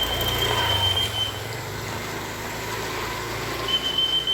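A motor vehicle's engine running close by, loudest in the first second and a half, over a steady hiss of rain. A thin high steady tone sounds briefly at the start and again near the end.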